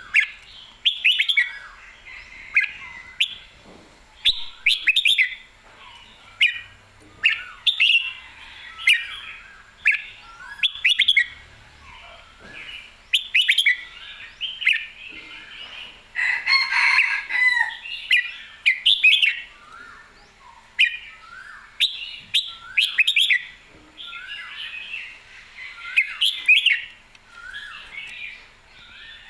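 Red-whiskered bulbul singing in full, lively song: short, bright warbled phrases in quick succession, about one a second, busiest around the middle.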